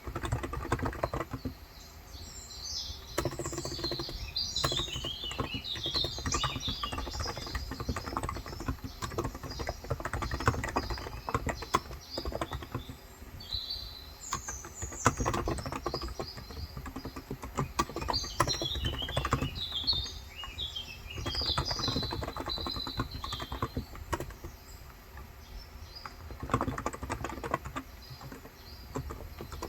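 Continuous typing on a Cox Endeavor electrostatic capacitive tenkeyless keyboard with 35 g switches, a steady run of soft keystrokes. Small birds chirp over it in several bouts, the longest early on and in the second half.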